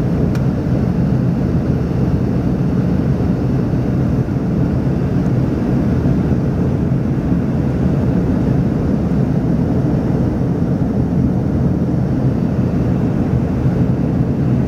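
Steady low drone of an Embraer ERJ-145's twin rear-mounted turbofan engines, holding an even level throughout.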